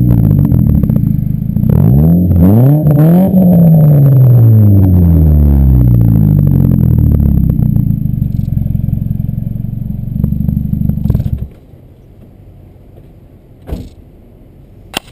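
2007 Ford Focus four-cylinder engine through an aftermarket BWR exhaust: it revs up sharply about two seconds in, the pitch falls away over several seconds and settles to a steady idle, and the engine cuts off suddenly a little past the middle. A couple of faint clicks follow.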